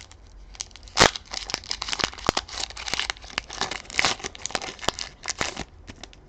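Foil wrapper of a Pokémon TCG booster pack crinkling and tearing as it is opened, a run of crackles with one loud sharp snap about a second in.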